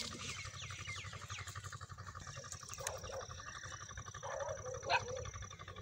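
Birds calling: a quick run of short, falling chirps in the first second and a half, then a few lower, rougher calls later on. A steady high-pitched tone and a sharp click near the end sit behind them.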